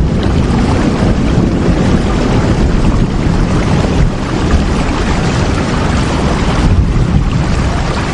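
Steady rain, a dense even hiss with a strong low rumble underneath and no single drops or other events standing out.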